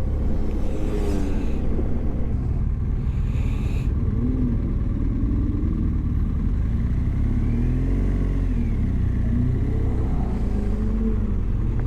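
Car engines running on the road ahead, their pitch rising and falling several times as they accelerate and ease off, over the steady rumble of the riders' own motorcycle.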